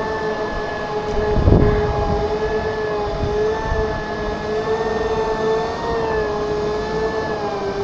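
Segway personal transporter's electric drive motors and gearboxes whining steadily, the pitch wavering slightly as the speed changes, with a short gust of wind rumble on the microphone about a second and a half in.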